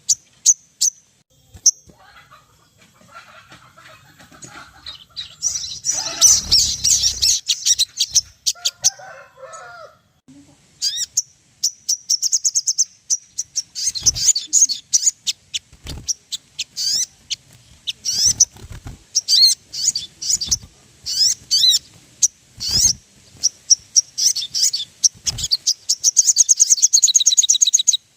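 Sogon birds calling in rapid, high-pitched chirps and trills, dense and overlapping, with a few sharp knocks between the calls.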